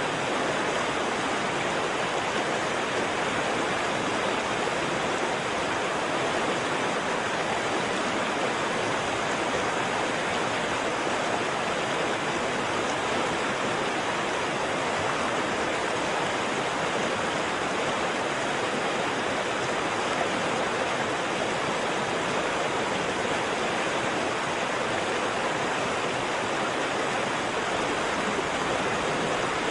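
Waterfall: water falling and rushing in a steady, unbroken roar of white-noise-like hiss, strongest in the mid and upper range, with no changes.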